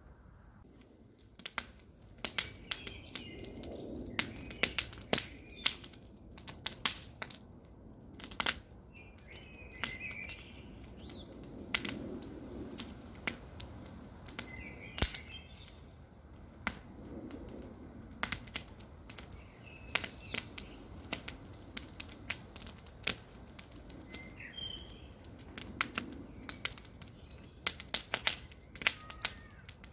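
Campfire burning: wood crackling and popping with sharp snaps in irregular clusters, over a soft rush of flame that swells now and then. A bird chirps faintly every few seconds.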